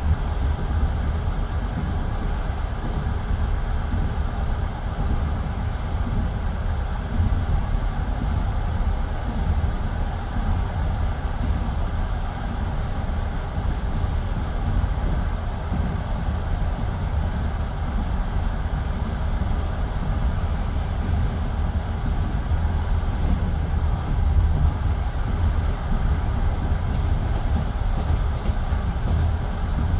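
Passenger railway carriage's wheels running on the rails at speed, a steady low rumble heard from inside the carriage.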